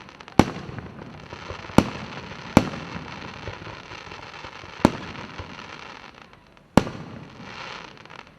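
Fireworks display: five sharp shell bursts at uneven gaps of one to two seconds, over a steady wash of noise.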